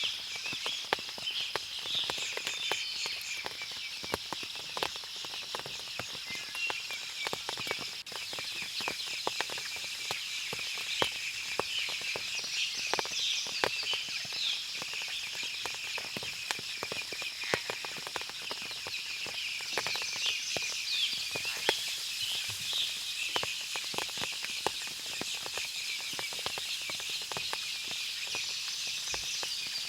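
Forest ambience after rain: a dense, continuous chorus of chirping birds and insects with a steady high-pitched drone, and scattered short sharp ticks throughout.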